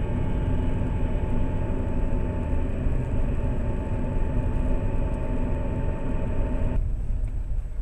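Lada Priora driving, its engine and road noise heard from inside the cabin as a steady rumble with a faint whine. Near the end the higher part of the noise drops away suddenly.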